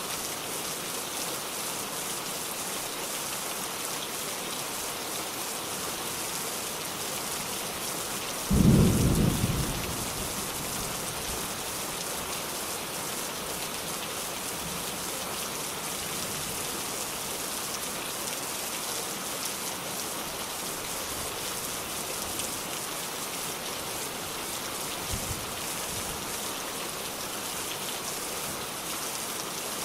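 Steady rain falling, with one loud low crack of thunder about a third of the way in that rumbles away over a second or so, and a faint low thump of distant thunder near the end.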